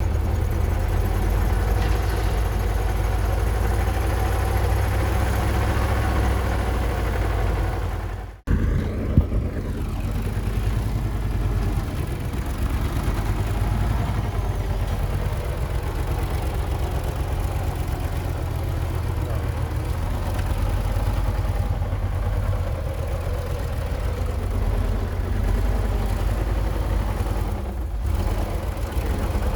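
Heavy diesel engines of earthmoving machinery running steadily, with a brief drop-out a little past eight seconds before the engine sound carries on.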